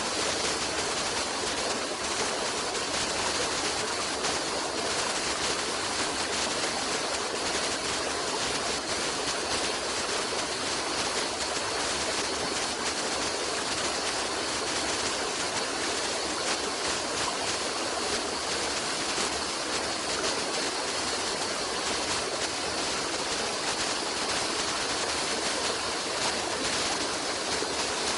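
Running water of a stream, a steady even rush with no surges or breaks.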